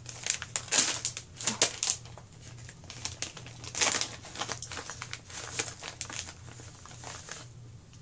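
A plastic snack pouch crinkling and rustling as it is handled and opened, in short irregular crinkles.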